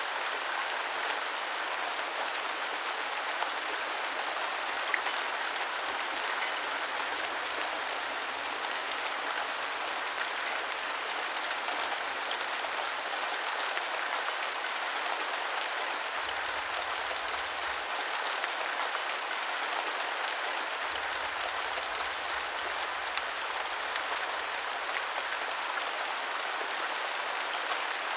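Steady rain falling: an even hiss with a fine patter of individual drops that holds the same level throughout.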